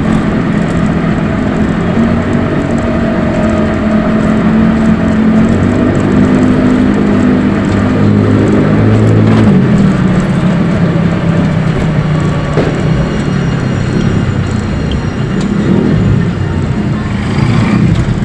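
Steady road noise while riding in an open electric tricycle, with a low engine drone from traffic that shifts in pitch about ten seconds in.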